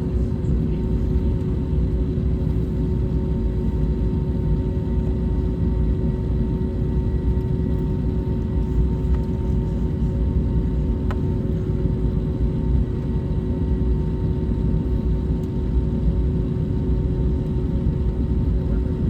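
Cabin noise inside an Airbus A321neo taxiing to the gate after landing: a steady low rumble with a constant hum from the idling engines.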